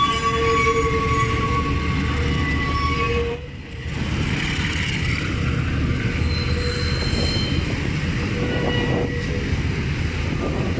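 Freight train of open ore wagons rolling past at close range, wheels running on the rails with steady, high-pitched wheel squeal; the sound dips briefly about a third of the way in.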